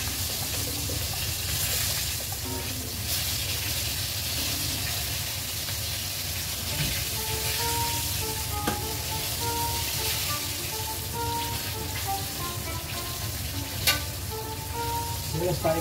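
Floured meat pieces deep-frying in hot oil in a pan, a steady sizzle, stirred and turned with tongs, with a sharp click near the end. A light melody of background music comes in about six seconds in.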